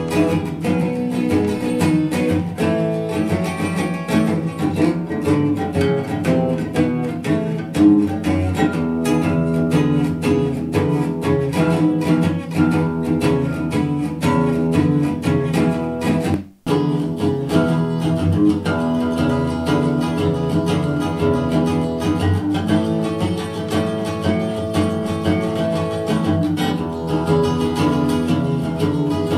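Acoustic blues instrumental led by plucked acoustic guitar, played through hi-fi bookshelf speakers and picked up by a microphone in the room. The music drops out for a split second a little past halfway.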